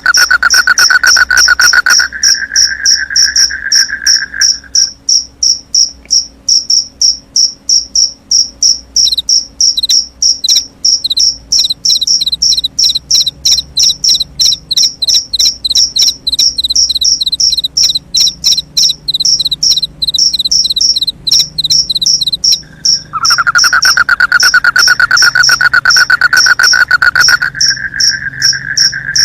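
Crickets chirping in a fast, even pulse. A second, lower-pitched insect trill runs steadily at the start and comes back near the end.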